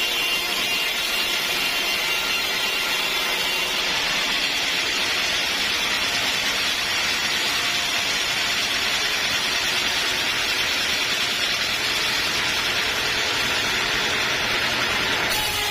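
Sawmill running steadily with a continuous mechanical noise; its sound shifts about four seconds in and again near the end.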